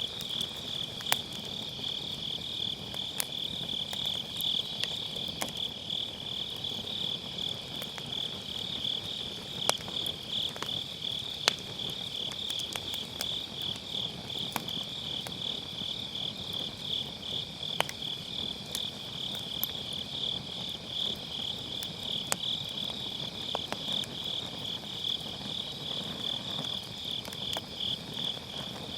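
Crickets chirping in a steady, fast-pulsing trill, over the low crackle of a burning wood fire with occasional sharp pops from the firewood.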